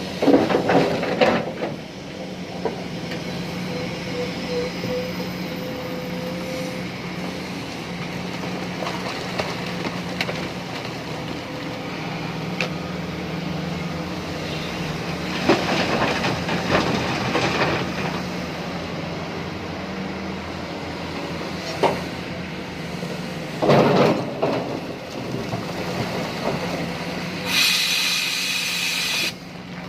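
Tata Hitachi ZAXIS 870 LCH excavator's diesel engine running under load with a steady low hum. Several loud bursts of clatter and scraping come from the bucket work while it loads a tipper. A high hiss lasts about two seconds near the end.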